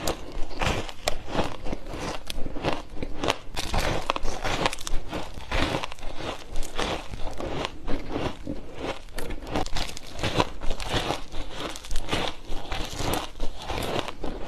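Close-miked crunching of shaved ice being bitten and chewed: a dense run of crisp crackles and crunches, several a second, without pause.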